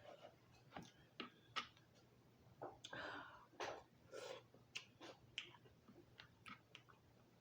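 Quiet close-up eating sounds of lobster meat being chewed, with scattered short wet mouth clicks and smacks.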